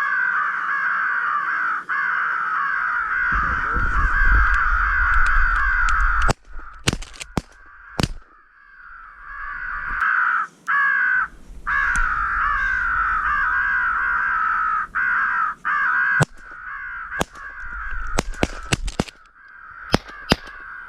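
Crows cawing over and over in a dense, continuous chorus, with brief sudden breaks and a few sharp clicks or knocks.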